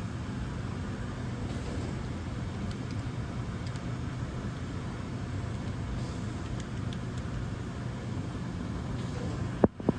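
DVF 5000 five-axis CNC machining centre running with a steady machine whir and hiss, with a few faint ticks. A short sharp click and a momentary dropout come near the end.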